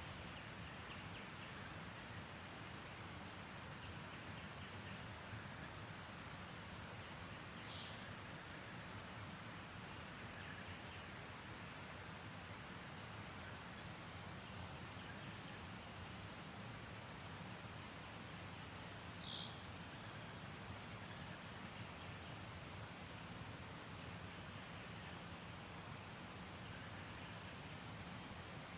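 A steady, high-pitched chorus of insects trilling without a break. Two brief high chirps cut across it, about 8 and 19 seconds in.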